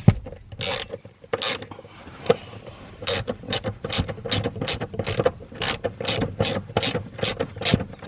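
Hand socket ratchet clicking in quick, even strokes, about three a second, as it backs out a seat mounting bolt, with a single knock right at the start.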